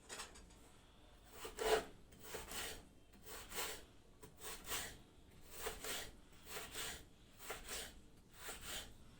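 Knife cutting raw potato into wedges on a wooden cutting board, a short rasping stroke about once a second.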